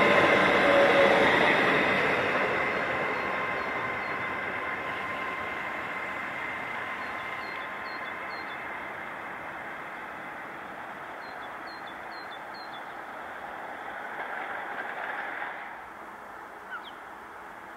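A train on the East Coast Main Line passes and draws away, its noise fading steadily, with a steady whine at the start that dies away within a couple of seconds. Faint bird chirps come through as it recedes.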